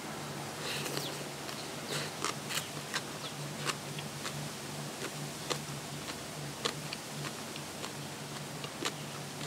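A person chewing food close to the microphone: irregular sharp crunches and mouth clicks, one or two a second, over a faint steady low hum.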